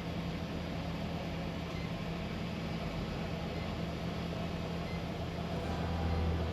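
A vehicle's engine running steadily at low revs, a low hum that grows a little louder near the end.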